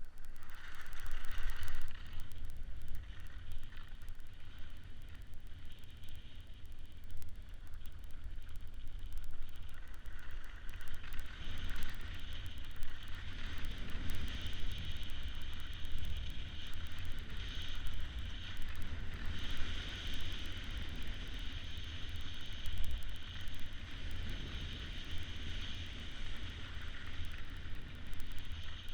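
Wind buffeting the microphone of a camera carried by a moving kiter, a low, gusty rumble with a steady hiss over it that gets stronger about a third of the way in.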